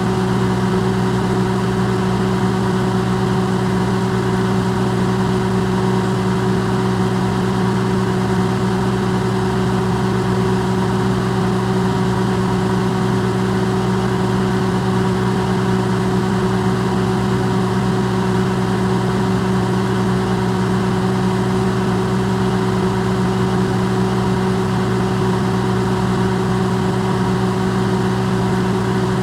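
Electrolux microwave oven running, its sound amplified: a steady, unchanging hum of several low tones over an even hiss.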